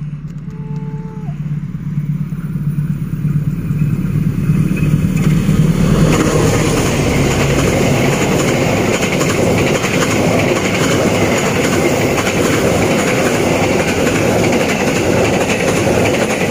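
KA Sembrani express passenger train passing at speed close by: a low rumble builds over the first few seconds, then a loud, steady rush of steel wheels on the rails as the coaches run past.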